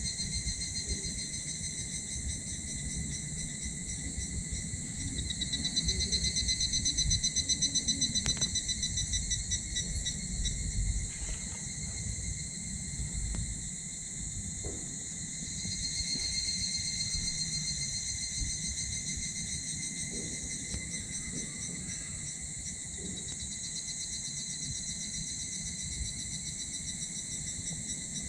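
Insects trilling steadily in several high pulsed chirring voices, louder for a few seconds about a fifth of the way in. Underneath, a small wood fire in a titanium wood stove crackles softly, with a few sharp pops.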